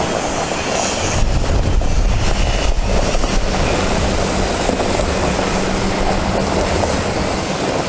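Cummins ISB 6.7L diesel engine of a Ford F750 medium-duty truck running, a steady heavy rumble with a constant hum through the middle.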